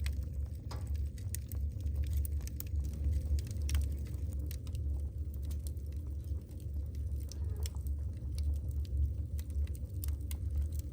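Wood fire burning in a fireplace: logs crackling with scattered sharp pops over a steady low rumble of the flames.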